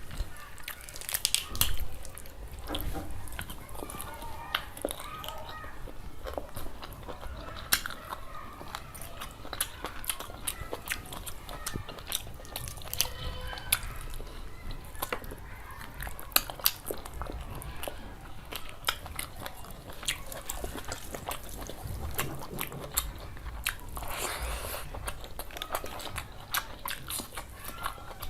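Close-miked eating sounds: a person chewing and biting into curry and rice, with frequent irregular crunchy clicks and wet mouth noises.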